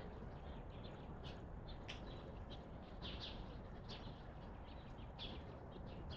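Small birds chirping: many short, high chirps at irregular intervals, over a steady low background rumble.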